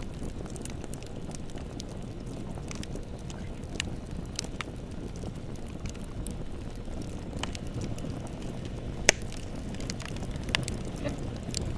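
Bonfire burning: a steady low rumble of flames with scattered crackles and pops from the burning wood, the sharpest pop about nine seconds in.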